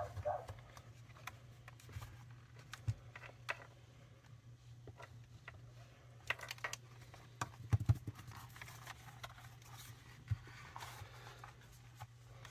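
Scattered light plastic clicks and taps from handling a dead Sony ICF-2001 shortwave radio, with a cluster of clicks around six to eight seconds in, over a faint steady low hum. The radio itself gives no sound, not even a hiss, because it is getting no power.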